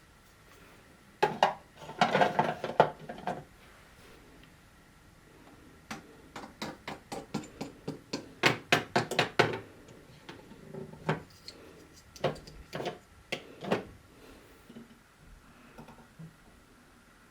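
Marbles clacking on plastic marble-run pieces. A dense clatter about a second in is followed by a quick run of clicks, several a second, in the middle, thinning to scattered single clicks near the end.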